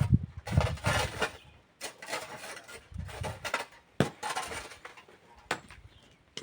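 Miners' hand tools working sand and stone: irregular scraping and metallic clinking, with sharp knocks about four and five and a half seconds in.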